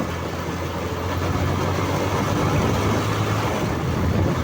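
Motorcycle engine running steadily under way, a low even hum mixed with wind and road noise; it gets slightly louder about a second in.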